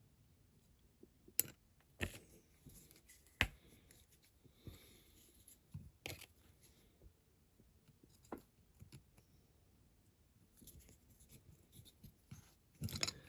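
Light clicks, taps and rustling from handling a small diecast model car and its parts: a few sharp clicks spread out, with quiet scraping between them.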